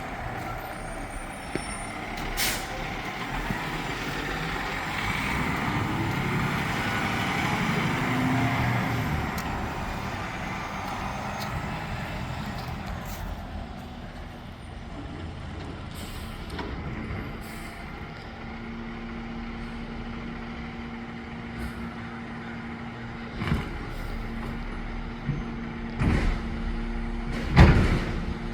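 Garbage truck running: the engine swells and revs for several seconds, then settles to a steady hum. Several loud knocks come near the end.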